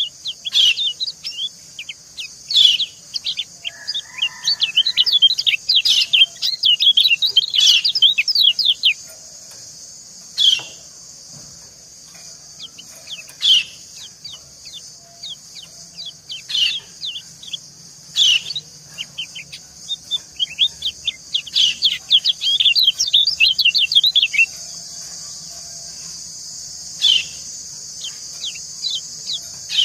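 White-eyes (kecial kuning) calling: female 'ciak' chirps alternating with male calls, in rapid runs of short, falling, high chirps and single calls between them. A steady hiss of running water lies under them and gets a little louder near the end.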